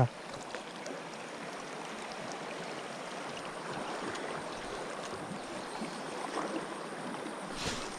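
Steady rush of river water flowing, with one brief tick near the end.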